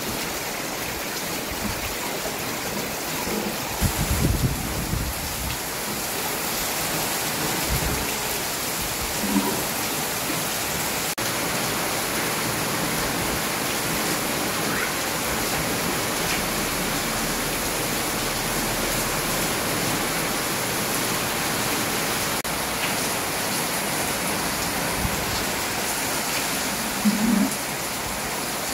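Steady rain falling, an even hiss throughout, with a few dull low thumps about four seconds in.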